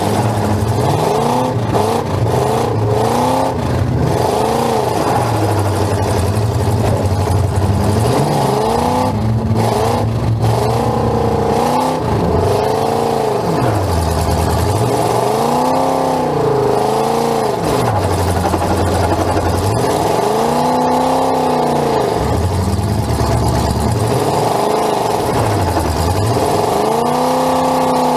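Full-size demolition derby car's engine heard from inside the cabin, revved up and let fall again and again, each rise and fall lasting a second or two. A couple of sharp knocks come about nine and ten seconds in.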